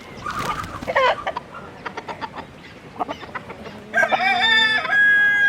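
Chickens clucking, then a rooster crowing about four seconds in, a long drawn-out call that is the loudest sound here.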